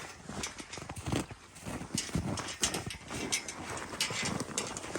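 Footsteps crunching through snow, an uneven run of short crunches.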